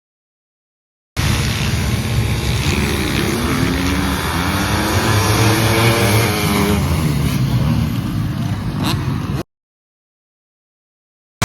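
Motocross dirt bike engine running and accelerating, its pitch rising through the middle. It starts abruptly about a second in and cuts off suddenly near the end.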